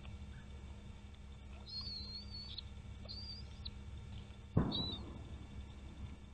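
High, thin bird calls: two wavering ones of about a second and half a second, then a short one near the end. A single thump about four and a half seconds in is the loudest sound, over a steady low hum.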